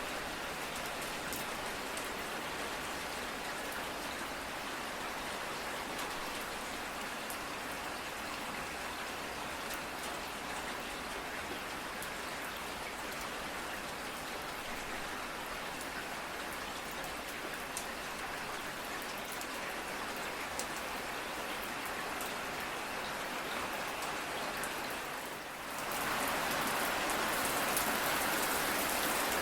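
Steady rain falling, a continuous hiss with scattered individual drop ticks. About 26 seconds in it dips for a moment and comes back louder and heavier.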